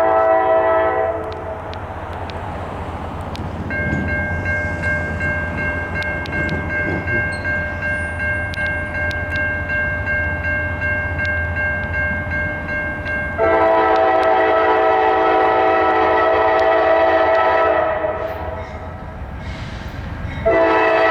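Lead locomotive's multi-chime air horn blowing long blasts over the steady rumble of the GE diesel-electric locomotives and train. One blast ends about a second in, a second long blast runs from about 13 to 18 seconds, and a third starts near the end. Between the first two blasts a thin, steady high tone of a few notes holds.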